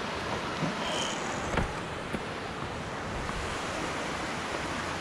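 Steady rushing of a river's flowing water, with a couple of faint knocks about one and a half to two seconds in.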